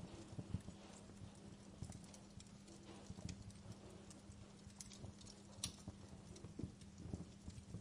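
Wood fire crackling: irregular sharp pops and soft low knocks, with a steady low hum underneath.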